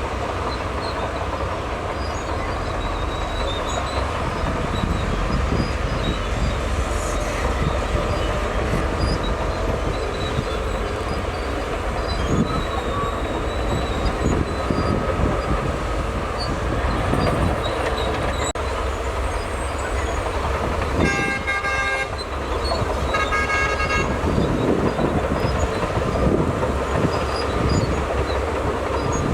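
Crawler bulldozer's diesel engine running steadily under load, with irregular clanking from the machinery. A vehicle horn sounds twice, briefly, about three quarters of the way through.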